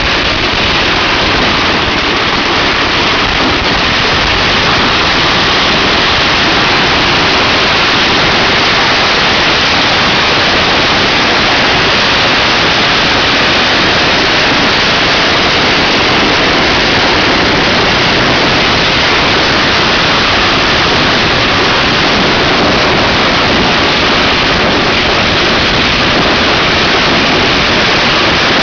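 Strings of celebration firecrackers going off without a break, the bangs so rapid and dense that they merge into a steady, loud rush of crackling noise.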